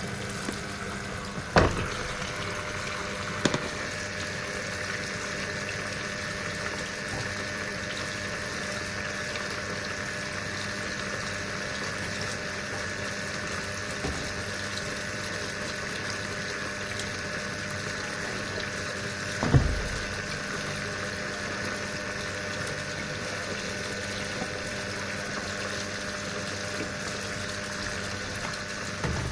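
Sharp washing machine filling with water: a steady hiss of water running into the drum with a faint steady whine. Three sharp clicks, two in the first few seconds and one in the middle.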